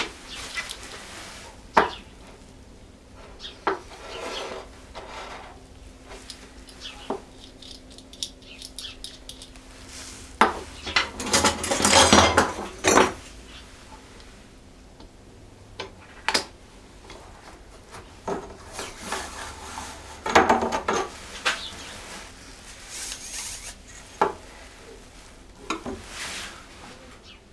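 Small hard objects, such as rulers and small wooden pieces, being handled on a work surface: scattered clicks and knocks, with two longer scraping stretches around twelve and twenty seconds in.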